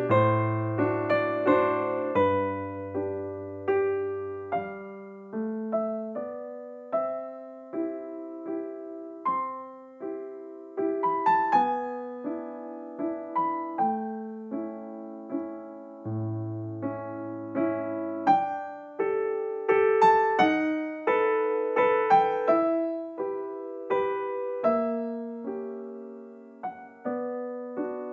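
Background piano music: a gentle melody of single notes, each struck and left to fade, over slow low bass notes.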